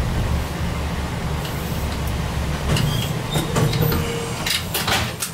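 Chikuho Electric Railroad 3000 series electric railcar rolling slowly to a stop at the platform, heard from the cab: a steady low rumble, with a brief faint whine and a run of clicks and clunks in the last couple of seconds.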